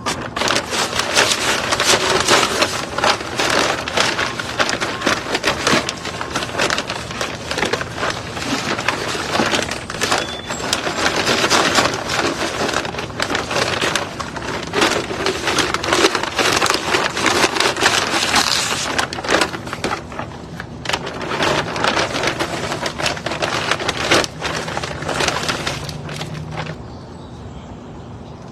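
Potting soil and plant pots being handled during repotting: dense, crunchy rustling and crackling with many small sharp clicks.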